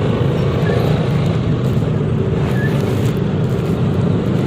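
Steady riding noise from a Yamaha XMAX 300 scooter moving through traffic: an even engine and road drone.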